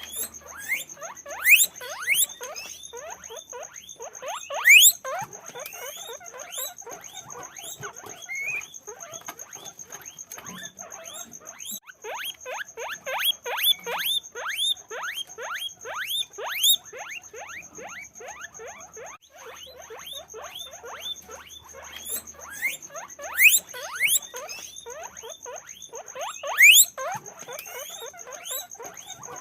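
Guinea pigs squeaking (wheeking): a dense run of short rising squeaks, several a second, with a few louder, longer squeals scattered through.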